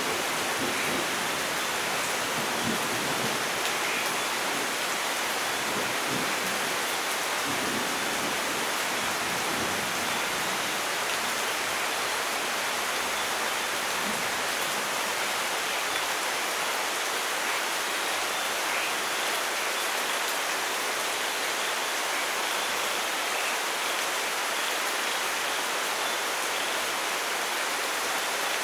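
Steady rainfall, an even hiss of rain on foliage and ground. A low thunder rumble dies away over the first few seconds.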